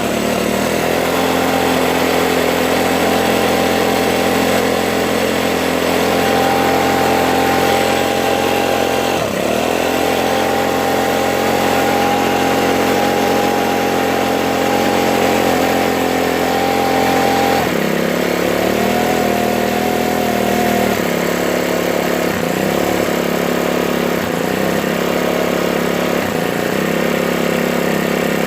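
Ryobi 4-cycle leaf blower engine running: it revs up and holds at high speed, with one brief dip about a third of the way in. About two-thirds through it drops to a lower speed and runs unevenly with repeated short sags, typical of the rough running the owner says the blower has always had.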